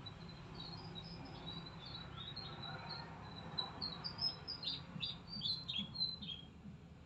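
Small birds chirping: a run of short, high chirps, many sliding downward, growing busier about halfway through, over a steady low hum.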